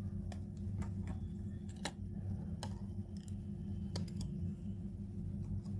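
A few scattered small clicks and taps from handling craft materials at a table, over a steady low room hum.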